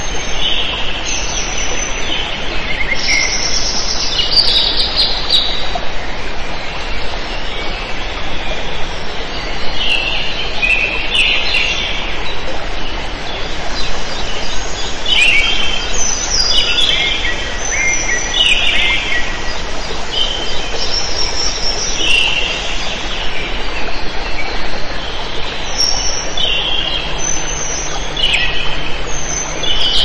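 Several birds chirping and singing in short, repeated chirps and trills over a steady background hiss.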